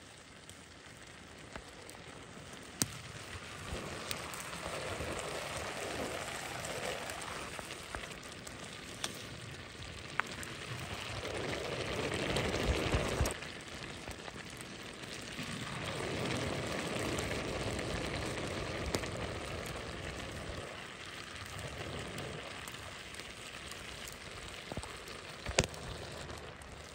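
Wood cooking fire crackling and hissing, a noisy rush that swells and fades several times, with a few sharp single pops.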